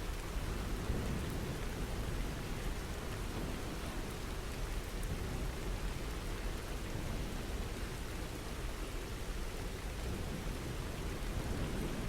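Steady rainfall, an even dense patter with a low rumble underneath.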